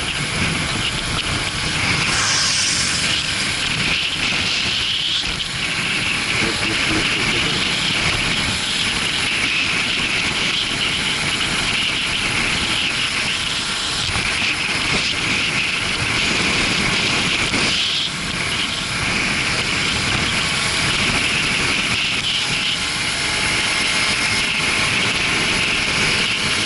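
Suzuki GW250 Inazuma motorcycle riding at speed: steady wind rush over the action camera's microphone with the engine running underneath.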